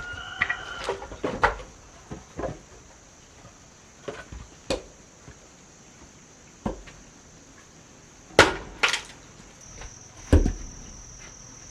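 Wood being struck: irregular knocks and cracks a second or more apart, the loudest three coming about eight to ten and a half seconds in. A steady high insect buzz runs underneath.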